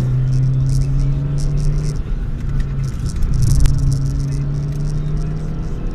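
Ford Fiesta 1.3's four-cylinder engine heard from inside the cabin, running at steady revs under way. Its pitch drops briefly about two seconds in and picks up again a second later, over tyre and wind noise.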